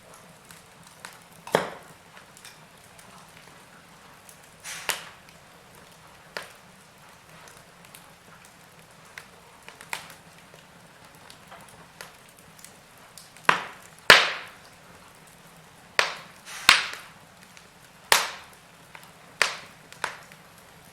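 Wood fire crackling: irregular sharp pops and snaps over a soft steady hiss, with a cluster of louder pops in the second half.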